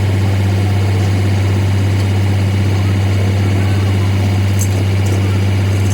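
An engine idling steadily with a deep, even hum, and a few faint clicks about four and a half to five seconds in.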